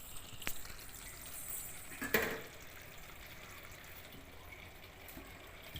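Brinjal kuzhambu simmering in a pan with a faint steady hiss and bubbling, as tamarind is about to go in. A small click about half a second in and a sharper knock, like a utensil against the pan, about two seconds in.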